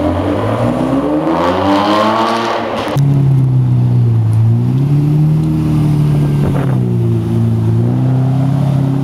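Supercar engine accelerating, its pitch rising, then an abrupt cut about three seconds in to an engine running at a lower pitch that rises and falls gently.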